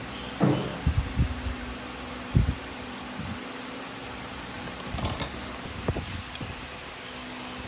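A handful of short knocks and clinks, like tools or parts being set down and handled, over a steady low hum. The sharpest clink comes about five seconds in.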